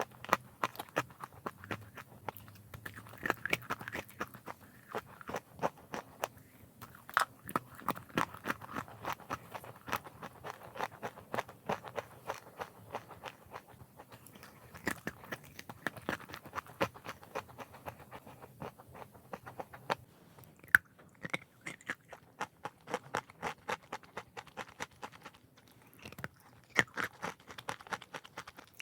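Close-up crunchy chewing of chalk: a dense run of sharp bites and crunches, with one loud crack about two-thirds of the way through.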